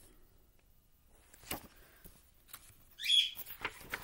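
A pet bird gives one short rising whistle about three seconds in, the loudest sound here. Around it come soft taps and the rustle of a large picture-book page being turned near the end.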